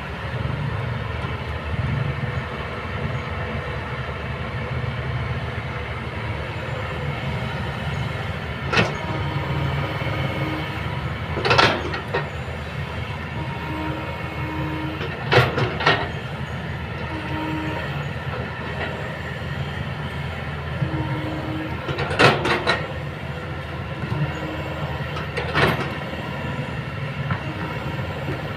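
Kobelco hydraulic excavator at work: its diesel engine running steadily, with brief whines coming and going. A series of sharp metal clanks sounds about a third of the way in, around the middle, and again near three-quarters through, some of them in quick pairs.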